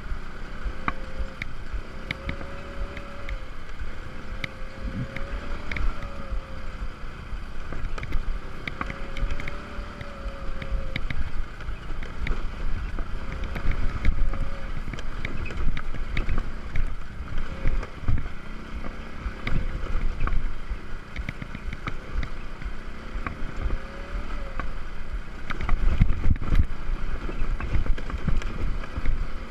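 Small moped engine running as it is ridden over a rough sandy track, its pitch rising and falling every few seconds with the throttle, with wind buffeting the microphone and scattered knocks and rattles from the bumpy ground.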